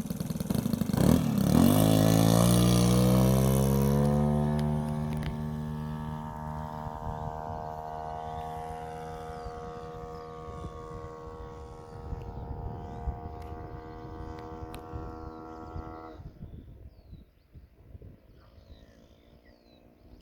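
Model airplane motor running loudly, its pitch dropping over the first few seconds and then holding a steady note that slowly fades, before it cuts off abruptly about sixteen seconds in. Faint bird chirps follow.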